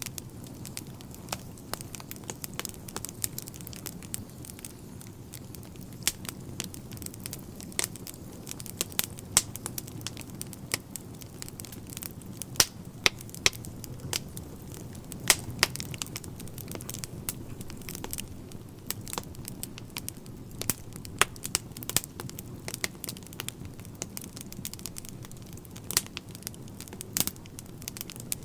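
Wood fire burning in a fireplace, crackling: frequent irregular sharp pops and snaps, a few much louder than the rest, over a steady low rumble.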